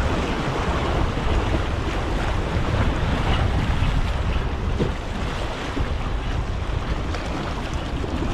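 Ocean surf washing steadily, with wind buffeting the microphone and adding a low rumble.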